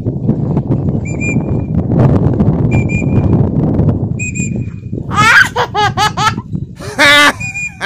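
Strong wind buffeting the microphone, broken by a few short, high paired chirps. About five seconds in, a run of loud, wavering, warbling calls takes over.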